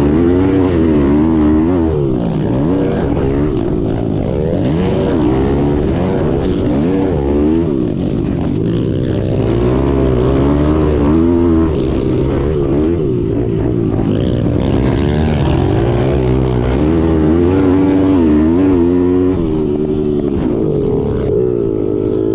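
Small-displacement pit bike engines revving hard, their pitch rising and falling continuously as the throttle opens and closes.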